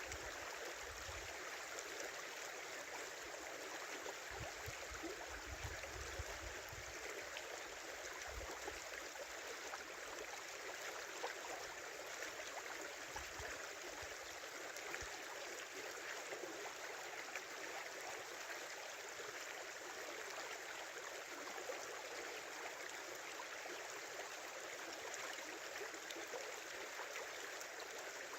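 Small river flowing steadily: a constant rush and babble of water.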